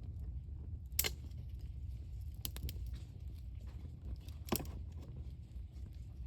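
Wood fire burning, with sharp pops from the burning wood: a loud crack about a second in, a few smaller ticks around two and a half seconds, and another loud pop about four and a half seconds in, over a steady low rumble.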